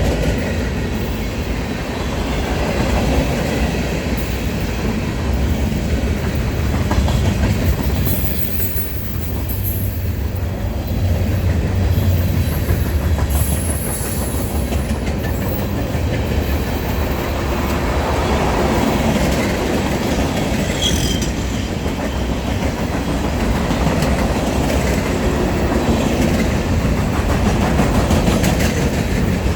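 Freight train cars of a manifest freight rolling past steadily, the wheels clacking over the rail joints, with a few brief high wheel squeals about a third of the way in and again a little past the middle.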